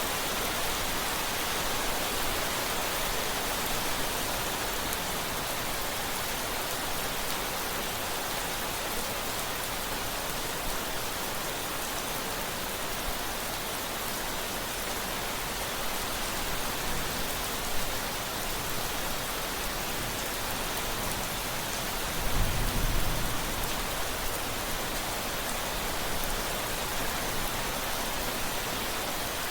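Steady rain falling, an even hiss of drops. About three-quarters of the way through comes a brief low rumble of thunder.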